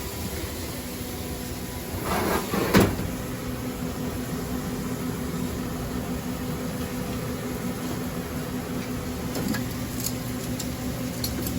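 Kitchen exhaust hood fan running with a steady hum, with a short clatter about two seconds in.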